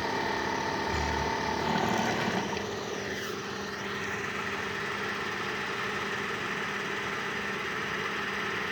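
12-volt DC water pump motor running with a steady hum and whine, its tone shifting slightly about two and a half seconds in.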